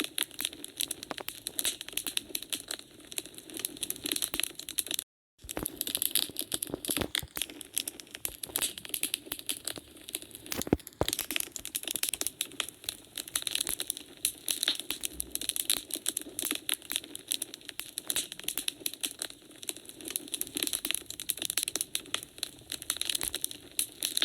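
Wood fire burning in a fireplace, crackling and popping in a dense stream of small snaps. The sound drops out completely for a split second about five seconds in.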